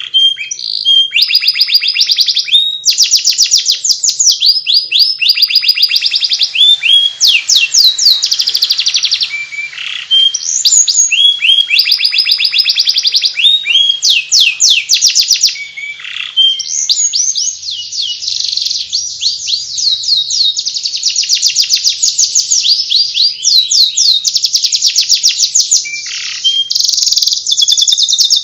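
Domestic canary singing in the fast, chattering ngeriwik style: long runs of rapid trilled notes, broken by brief pauses every few seconds.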